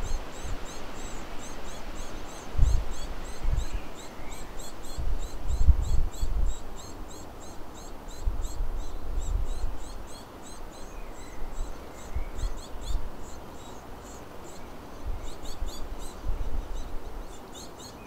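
Small songbirds chirping: a rapid run of short, high, thin chirps repeating several times a second. Irregular low rumbles come and go underneath.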